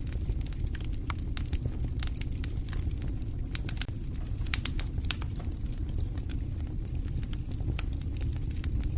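Campfire crackling: irregular sharp pops and snaps, the strongest a few around four to five seconds in, over a steady low rumble.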